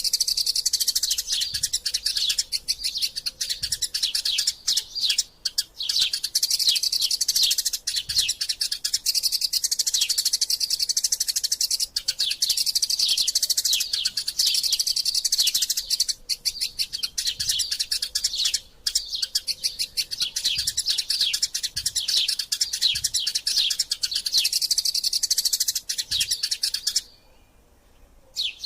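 Eurasian tree sparrows chattering in a rapid, continuous stream of high chirps, the excited calls of sparrows fighting. The chirping stops for about a second and a half near the end, then starts again.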